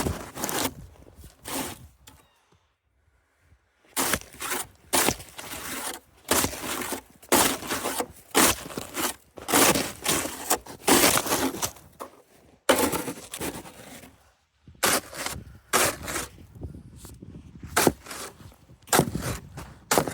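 Snow shovel turned upside down and jabbed repeatedly into crusted snow to break up the crust. It makes a series of short strokes, roughly one a second, with a pause of about two seconds early on and a couple of shorter pauses later.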